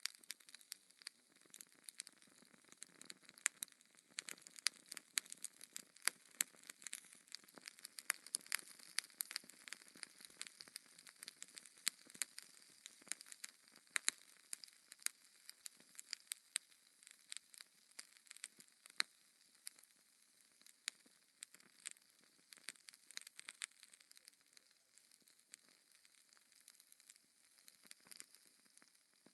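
Wood fire burning in a fireplace, crackling with frequent irregular sharp pops over a soft steady hiss.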